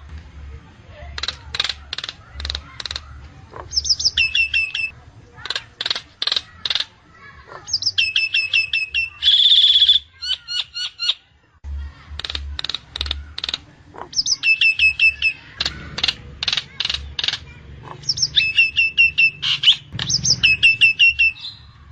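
Nias hill myna calling: runs of sharp clicking notes and loud whistled phrases repeated with short pauses, with one louder drawn-out harsh note about ten seconds in.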